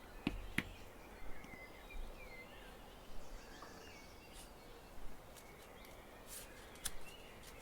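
Kami origami paper being folded and creased by hand, with scattered soft crinkles and taps.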